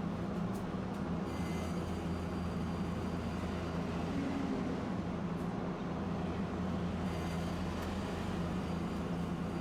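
Tosaden streetcar running with a steady low hum and rumble of its motors and wheels on the rails.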